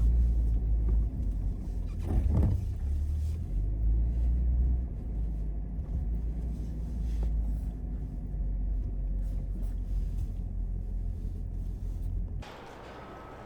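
Low, steady rumble of a car driving, with a short louder swell about two seconds in. About a second before the end the rumble cuts off suddenly, leaving a quieter hiss with a faint thin tone.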